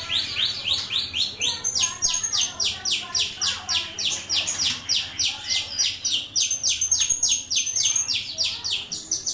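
Rio-rio jalak (a starling) singing a rapid, even chatter of short notes, a little over four a second, with high drawn-out whistles laid over it about two seconds in and again from about six and a half seconds.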